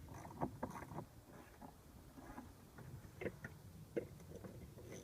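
A few faint clicks and knocks of plastic air-filter housing clips and parts being handled and unclipped in an engine bay.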